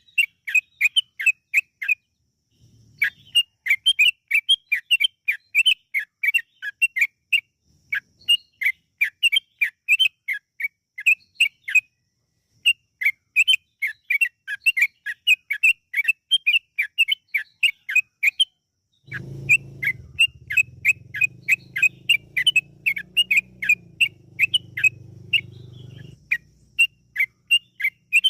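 Yellow-vented bulbul (trucukan) singing a long rapid-fire run of short whistled notes, several a second, broken by a few brief pauses. A low hum sits underneath from about two-thirds of the way in until near the end.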